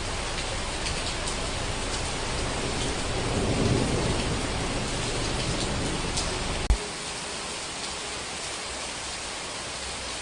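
Steady rain hiss with a low rumble of thunder swelling a few seconds in. About two-thirds of the way through, the sound cuts abruptly with a click to a quieter, thinner rain hiss, as at a seam in a looped track.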